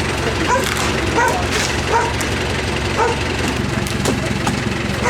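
A dog barking repeatedly, about once a second, over the steady low running of a tractor engine.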